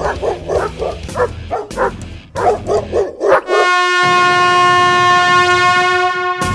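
Rapid, dog-like yelps of pain, about five or six a second with one short break, from the victim of the neutering. Then a single long high tone at one steady pitch, held for about three seconds until it cuts off.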